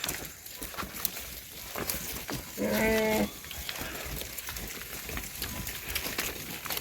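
A single bleat from a goat or sheep of the flock, about three seconds in and under a second long, held at one pitch. Faint scattered ticks and hiss run underneath.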